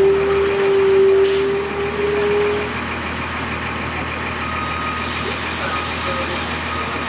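Blue Bird CS transit bus with its Cummins ISC diesel running, a steady tone sounding over it for the first few seconds. From about five seconds in, a long hiss of air from the bus's air system sets in.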